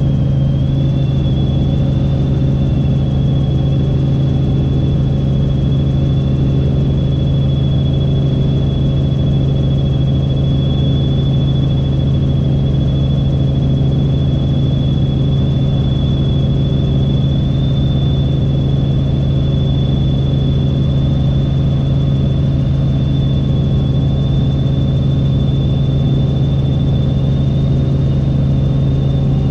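Helicopter in flight: a steady, loud low drone of rotor and engine with a thin high whine held above it, unchanging throughout.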